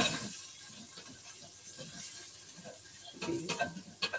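Onions sizzling as they fry in oil in a pan, a steady hiss, with a few short knocks near the end.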